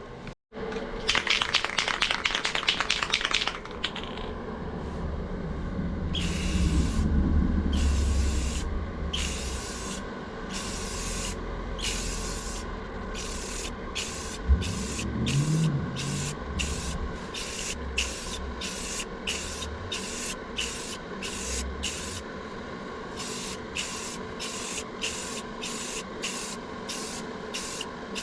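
Clear coat being sprayed over a car's engine bay in short hissing bursts, one after another, about one or two a second. A quick rapid rattle comes in the first few seconds, and a steady low hum runs underneath.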